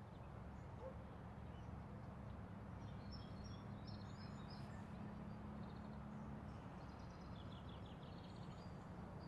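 Outdoor park ambience: a steady low background noise with a small bird chirping high-pitched quick runs of short notes, twice.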